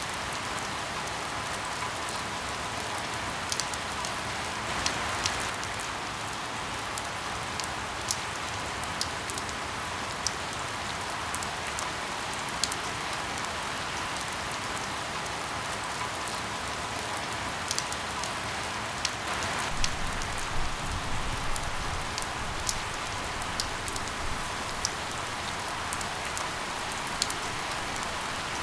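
Steady rain falling, mixed with scattered sharp crackles and pops of burning firewood. A brief low rumble swells about twenty seconds in.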